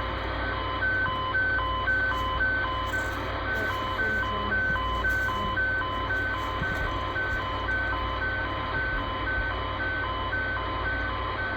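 A CB radio's speaker on single sideband playing an unidentified alarm-like beeping signal. Short beeps repeat about twice a second over steady radio hiss, with a faint steady tone underneath. The signal is coming in by skip and sounds like some sort of warning or alarm system.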